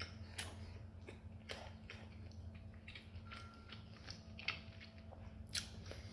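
Close-up chewing of a mouthful of breaded popcorn chicken, with soft crunches and small mouth clicks scattered throughout. A faint, steady low hum runs underneath.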